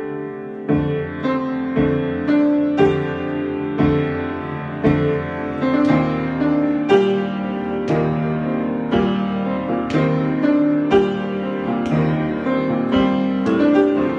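Solo piano improvisation: chords and melody notes struck at an unhurried, even pulse of about one a second, each left to ring into the next.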